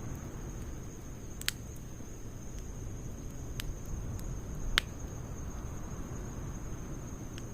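Wood fire of logs and pine needles burning with a steady low rumble and four sharp crackling pops, the loudest about five seconds in. A steady high-pitched insect-like drone runs underneath.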